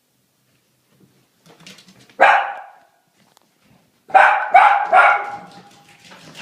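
Maltese dog barking: one sharp bark, then about two seconds later three quick barks, the last drawn out into a short held whine.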